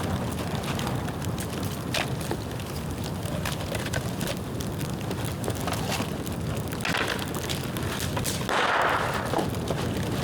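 Bonfire of dry bamboo burning, a steady low rumble with scattered sharp crackles and pops, and a louder hissing burst about nine seconds in.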